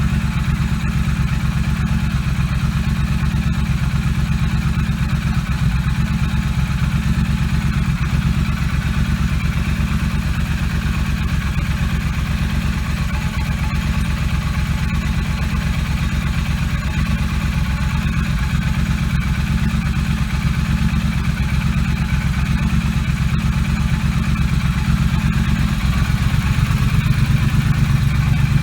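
2017 Triumph Street Cup's parallel-twin engine idling steadily through aftermarket TEC slip-on mufflers, with the engine speed rising slightly near the end.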